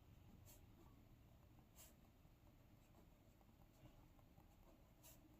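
Near silence, with the faint scratch of a pen writing on paper and a few faint ticks.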